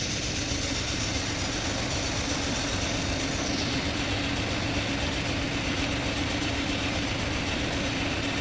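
Steady machine hum with an even hiss, and a high whine that fades out about three and a half seconds in.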